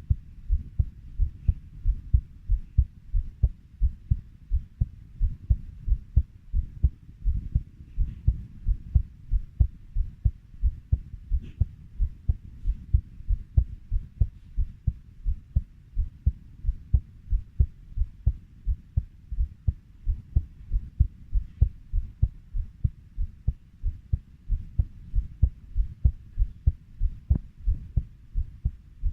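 Heartbeat thumping steadily at about 90 beats per minute, each beat a low double lub-dub.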